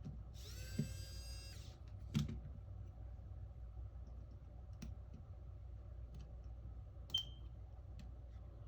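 Small tools clicking and tapping on a phone's screws and internal parts, with a brief high whine that rises at its start about half a second in and lasts about a second, and a few sharp clicks afterwards, one with a short metallic ring.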